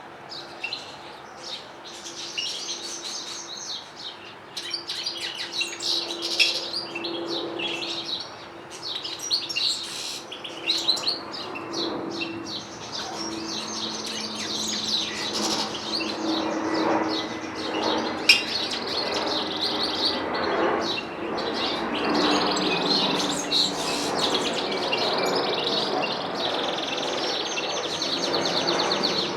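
Canaries and goldfinches singing together: rapid, overlapping twittering trills and chirps without a break, with one sharp click about two-thirds of the way through.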